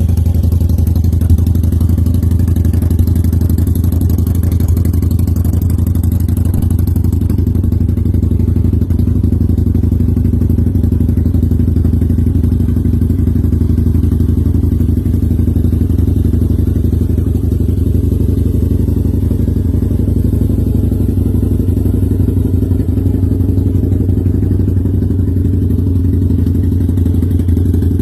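2011 Harley-Davidson V-Rod's liquid-cooled Revolution V-twin idling steadily through a Vance & Hines exhaust, a loud, even low rumble with no revving.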